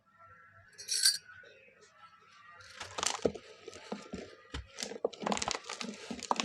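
Dry moulded shapes of mud, charcoal and red sand crumbling and crunching, with a dense run of crisp crackles from about three seconds in. A sharp clink comes about a second in.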